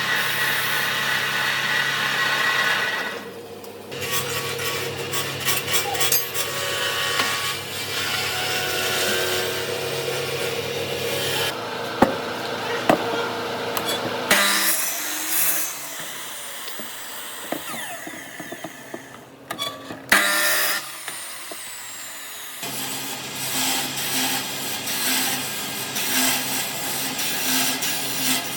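Workshop power tools working wood in a run of short edited clips: a steady motor whine with cutting or sanding noise, changing abruptly every few seconds, with a few sharp knocks near the middle.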